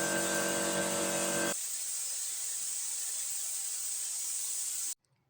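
Steady hiss of rushing air with a motor's hum under it; the hum stops about a second and a half in while the hiss goes on, then everything cuts off suddenly near the end.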